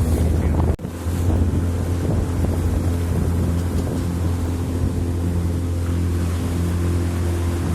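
A boat's engine running steadily with a low drone, heard on board over water noise. Gusty wind on the microphone stops abruptly about a second in.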